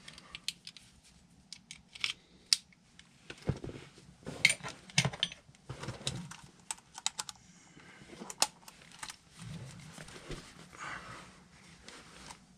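Irregular clicks, taps and short scrapes of hand-handled parts inside a furnace cabinet, as a door switch and its wiring are worked loose and moved aside.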